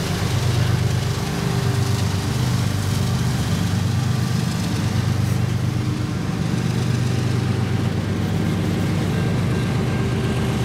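Two GE ES44AC diesel-electric locomotives passing close by with their engines working, a loud steady low drone, with freight cars rolling past on the rails behind them.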